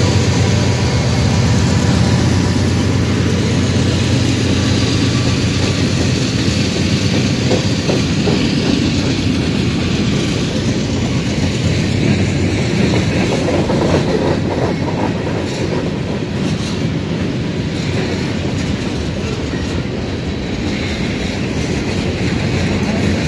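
A Norfolk Southern freight train rolling past. The steady drone of mid-train GE ES44AC diesel locomotives fades after the first few seconds, leaving the rumble and clickety-clack of freight car wheels over the rail joints.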